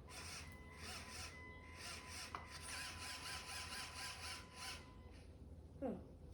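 LEGO Technic Liebherr R9800 excavator's electric motors whirring as they drive the bucket arm up and down through its plastic gears. It is a faint, pulsing, grainy whine that stops about five seconds in.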